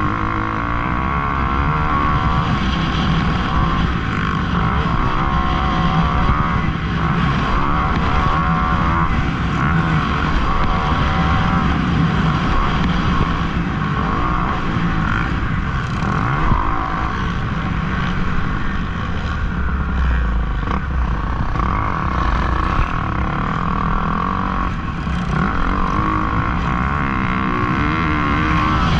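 Several motocross dirt bike engines running at once, revving up and down in overlapping, wavering pitches without a break.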